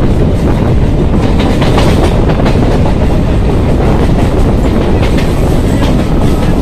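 Electric local train running at speed, heard from its open doorway: a loud, steady rumble of wheels on rail with some clicking over the rail joints, a few clicks coming about one to two seconds in.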